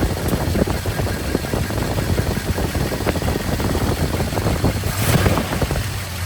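1969 Dodge Coronet R/T's 440 Magnum V8 idling steadily with a low, pulsing exhaust note.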